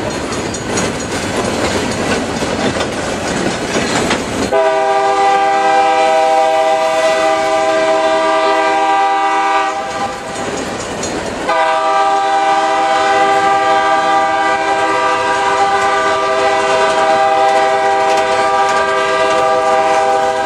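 Freight cars rolling past, wheels clattering over the rail joints. About four seconds in, a diesel locomotive's multi-tone air horn sounds a long steady chord for about five seconds, breaks off briefly, then sounds a second long blast.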